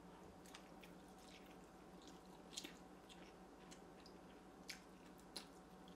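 A person eating a mouthful of soft noodles: faint, wet chewing with mouth clicks and smacks about once a second, a few louder ones in the second half.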